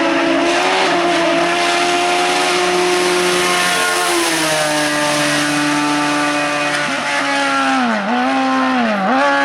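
Hill-climb race car engine running hard at high revs. The pitch drops about four seconds in as the car shifts up, then dips sharply and climbs back twice near the end.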